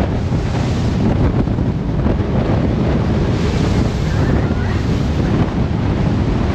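Wind buffeting the microphone over loud, steady rushing and churning water, aboard a moving jet boat.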